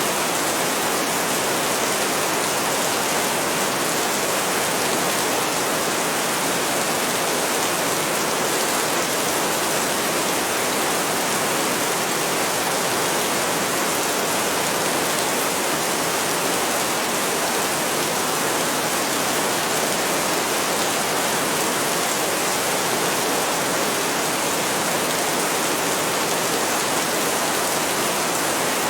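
Heavy rain falling steadily, an even, unbroken rush with no thunder.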